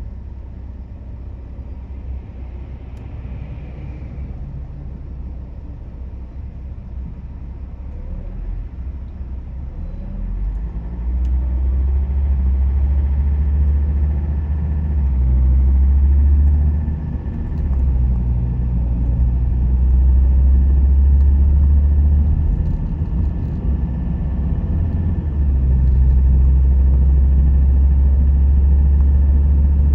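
Car on the road: a steady low rumble of engine and tyres, which grows louder about ten seconds in.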